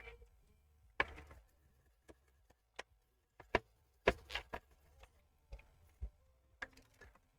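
Sparse, irregular light clicks and taps from hand tools working over a laptop motherboard while it is being cleaned, about ten over several seconds.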